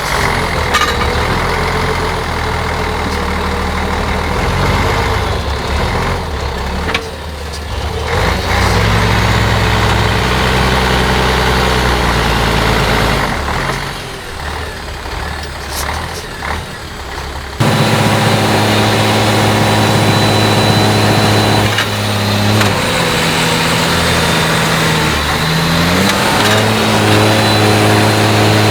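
Liaz off-road trial truck's diesel engine working under load, its pitch rising and falling in steps as the throttle is worked. About two-thirds of the way through the sound changes abruptly to a steadier, slightly louder engine run that dips and climbs again near the end.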